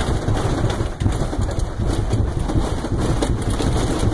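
Loud, continuous low rumble with uneven pulsing, heard inside an airliner cabin as the jet rolls down the runway on a blown tire during a crash landing.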